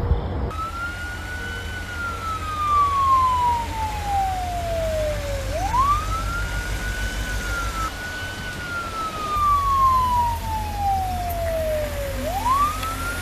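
A siren wailing: twice, its pitch rises sharply in about half a second, then falls slowly over about four seconds, over a steady low rumble.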